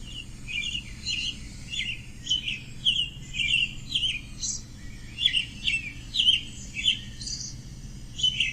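American robin singing: a continuous run of short, clear whistled phrases, over a low steady background rumble.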